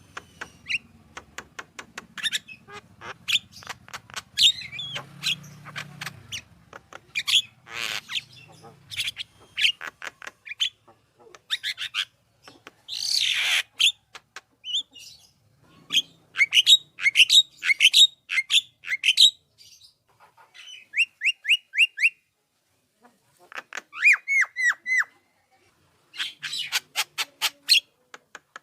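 Javan myna (jalak kebo) singing a varied, busy song of quick chirps and whistled notes, with one long harsh squawk about halfway through. Later come fast runs of repeated notes and short series of downward-slurred whistles, broken by a brief pause.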